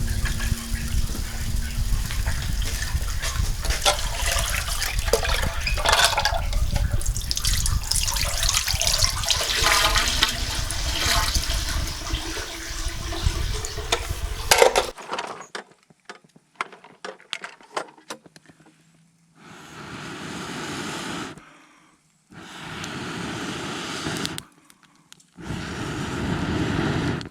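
Water running and splashing for about fifteen seconds, then stopping suddenly. A few clicks follow, then three separate bursts of hiss, each about two seconds long.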